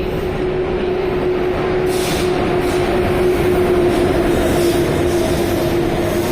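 Passenger train running on the rails: a steady loud rumble with a humming tone held throughout, dipping slightly in pitch near the end.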